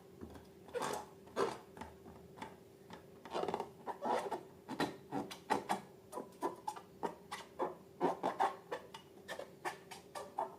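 Slime being squeezed and worked by hand, a string of irregular short squishes and crackles, over a faint steady hum.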